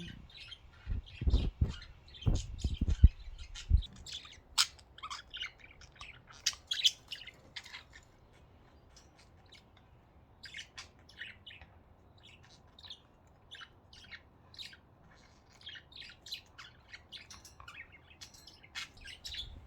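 Pet budgerigars chirping and chattering, with many short, high chirps scattered throughout. There are a few low thumps in the first four seconds.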